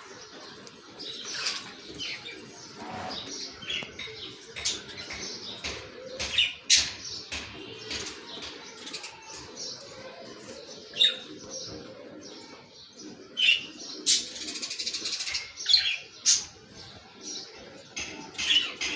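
Budgerigars chirping and chattering in a run of short high calls, with wings flapping and a longer burst of fluttering about fourteen seconds in.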